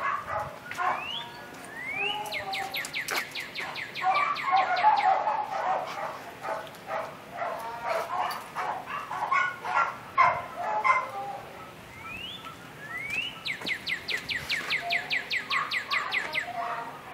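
A songbird singing the same phrase twice, about ten seconds apart: two quick rising whistles, then a fast, even run of sharp notes. Other scattered chirps and calls fill the gaps.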